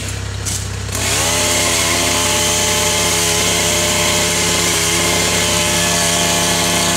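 Chainsaw opening up about a second in and held at high, steady revs while cutting limbs.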